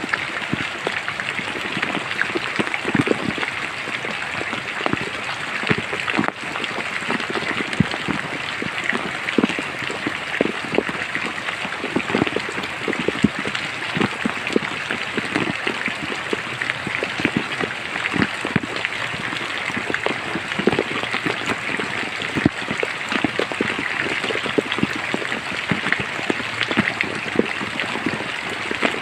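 Steady rain falling in a forest: an even hiss with many individual drops striking close by at irregular moments.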